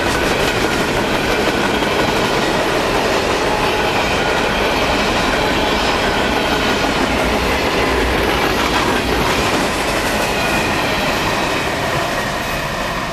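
Empty coal hopper cars of a freight train rolling past on jointed track, steady wheel-and-rail clatter with a thin high squeal from the wheels at times. The noise eases off in the last few seconds as the train moves away.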